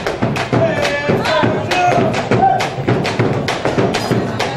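Argentine folk music with a fast, steady percussive beat and a gliding melody line over it.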